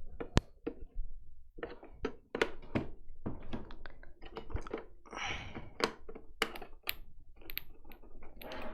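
Irregular plastic clicks, taps and thunks from handling the Roomba i7+ base and its power plug while plugging it in.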